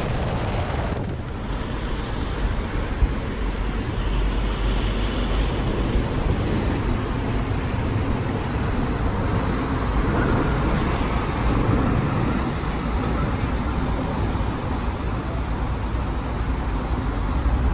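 Motorcycle on the move: a steady rush of wind over the microphone with engine and road noise underneath, holding an even level throughout.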